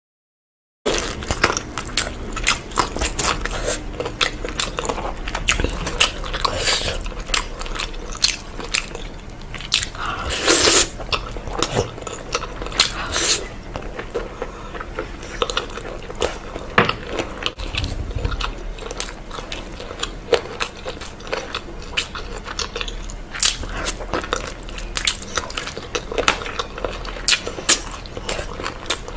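Close-miked eating: a person chewing and biting into puri and mutton curry, a dense, irregular run of sharp mouth clicks and crunches that starts about a second in.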